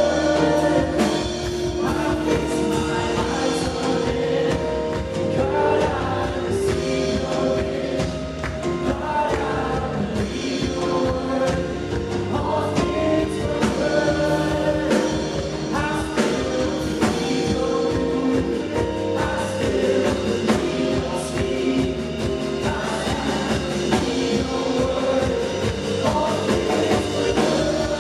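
Live gospel worship music: a band with drums playing while singers hold sustained notes.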